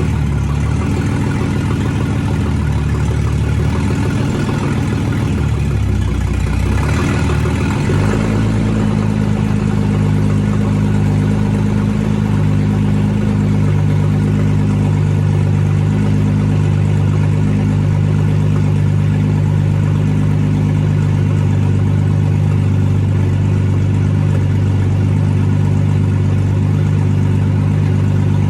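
Ford BA Falcon engine idling with its exhaust not yet fitted, running unevenly for the first several seconds and settling into a steady idle about eight seconds in.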